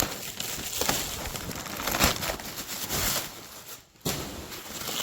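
Packing material rustling and crinkling, with a few light knocks, as parts are handled and taken out of a shipping box.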